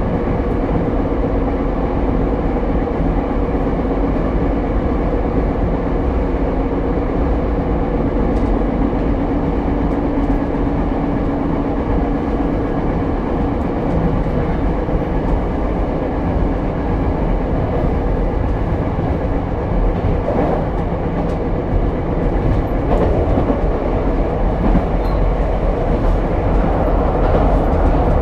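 Ichibata Electric Railway 7000-series railcar running along the line, heard from inside the car: a steady rumble of wheels on rail, with a low humming tone that fades out about halfway through.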